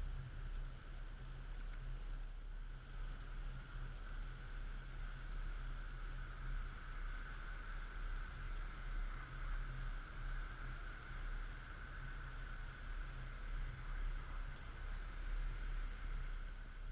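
Typhoon wind buffeting the camera's microphone: a low rumble that swells and eases irregularly with the gusts.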